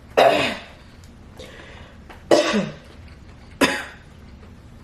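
A person coughing hard three times, the first two about two seconds apart and the third a second later, because food went down the wrong pipe.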